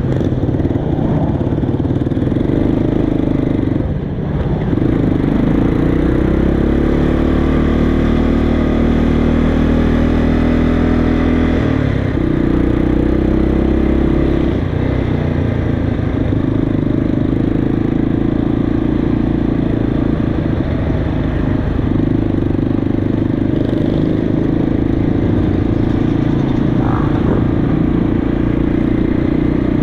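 Vintage motorcycle engines running steadily. Between about five and twelve seconds in, one engine's pitch climbs and holds, then drops away sharply.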